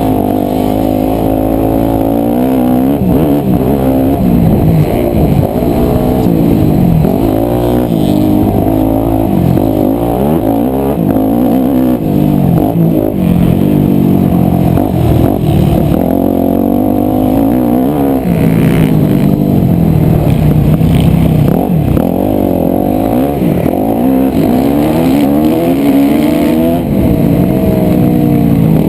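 Yamaha YZ250F four-stroke single-cylinder motocross engine revving hard and dropping off again and again, rising and falling in pitch every second or two with the throttle and gear changes around the track.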